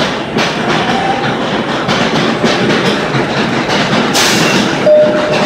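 A train running past the platform, its wheels clacking over the rail joints in an uneven rhythm, with a brief hiss about four seconds in and a short wheel squeal near the end.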